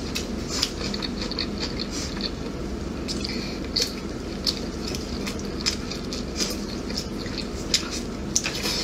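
Close-miked wet chewing and lip smacks of a person eating slow-braised pig tail. Soft, irregular clicks come about once or twice a second over a low steady hum.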